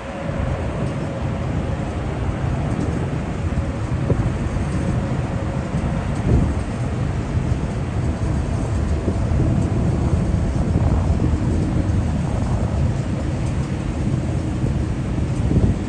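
Steady low rumble of a four-engine Boeing 747's jet engines during its takeoff.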